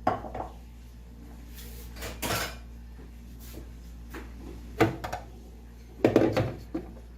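Kitchen handling clatter: a few scattered knocks and clinks of dishes and utensils, the loudest about five and six seconds in.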